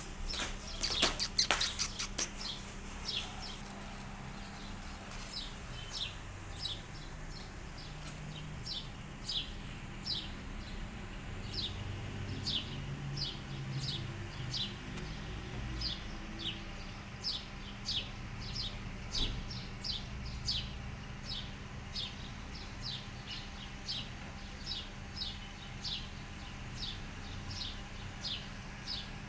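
A small bird chirping over and over: short high chirps, about two a second. A loud burst of rustling and crackling comes in the first few seconds.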